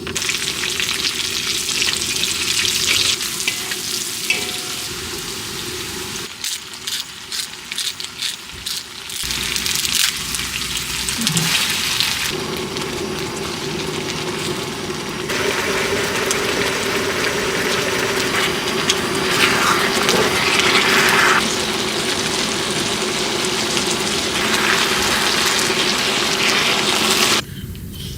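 Food sizzling in a hot pan. The hiss comes in several stretches joined by sudden cuts, with a spell of sharp crackles about seven to nine seconds in.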